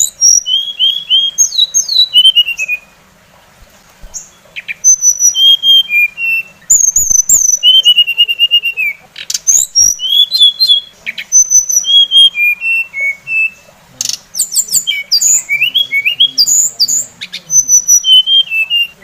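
Songbird song from a masteran tutoring track that mixes several Indonesian songbirds. It is a fast, varied run of chirps, rising and falling whistled notes and a few harsh buzzy notes, broken by a short pause about three seconds in.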